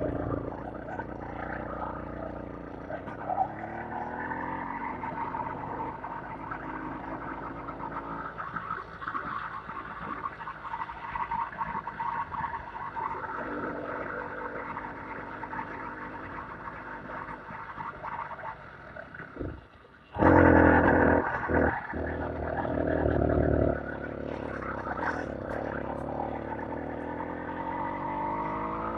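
Vehicle engine running with the revs rising and falling. About twenty seconds in it dips briefly, then runs louder for a few seconds before settling. Near the end the revs climb again.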